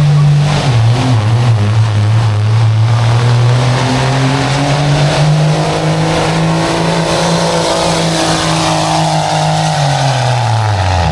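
Pulling truck's engine held at full throttle dragging the weight sled. The engine note bogs down about half a second in, climbs slowly as it pulls, then sags over the last few seconds and drops off sharply at the end as the run stops.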